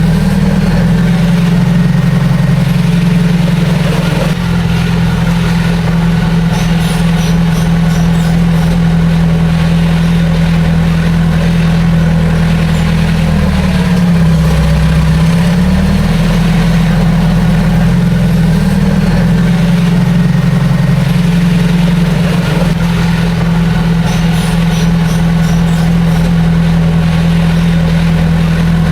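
Heavy diesel engine of earth-moving machinery running steadily with a deep drone; about halfway through its pitch dips briefly and comes back up.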